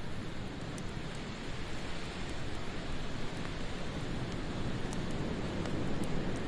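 Wood fire crackling in a fireplace: a steady hiss and rumble with a few sharp pops.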